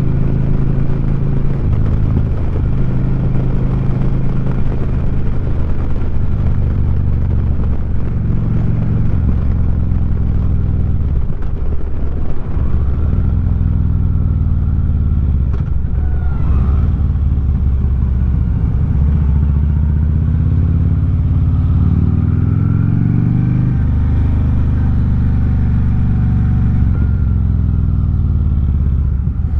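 2009 Harley-Davidson Street Glide's V-twin running at road speed through 4.5-inch Sharkroad slip-on mufflers. The engine note is steady, drops briefly about a third of the way through, and climbs in steps later as the bike accelerates through the gears.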